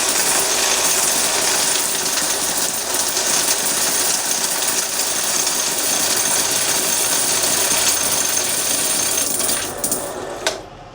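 Electric coin counter running, a steady dense rattle of quarters feeding through the machine, stopping near the end.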